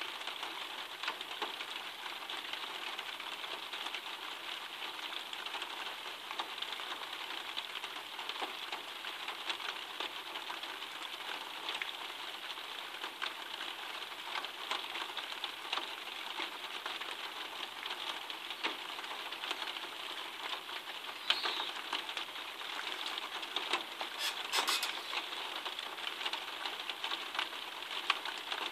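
Steady rain, a dense patter of drops ticking on nearby surfaces, with a few louder drip clicks about three-quarters of the way through.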